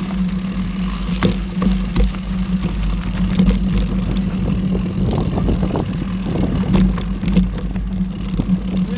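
Mountain bike being ridden over a trail: a steady low buzz and rumble, with frequent rattles and knocks from the bike over rough ground.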